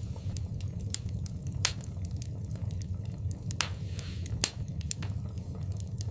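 Wood fire burning in a fireplace: a steady low rumble of the flames with irregular sharp pops and crackles, the loudest snaps about a second and a half in and twice more around the middle.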